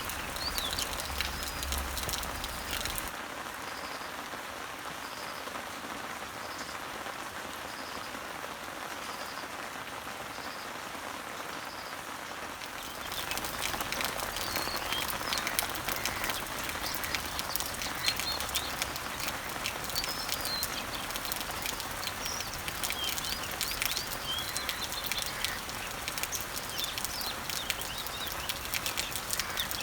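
Rain falling on garden leaves and trees, a dense hiss full of small drop ticks, growing heavier from about 13 seconds in. Songbirds chirp in the background. A short high note repeats about once a second for several seconds in the first half.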